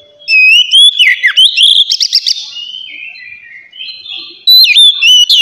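Oriental magpie-robin (kacer) singing loud, clear whistled phrases with fast up-and-down slurs, in the 'ngeplong' style. There are two loud bursts of song, one starting just after the opening and another about four and a half seconds in, with softer chattering notes between them.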